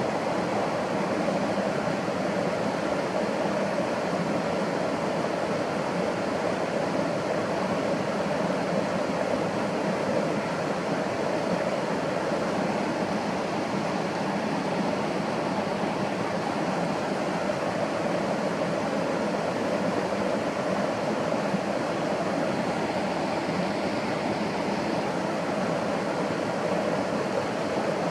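Running water rushing steadily, an unbroken even noise with no change in level.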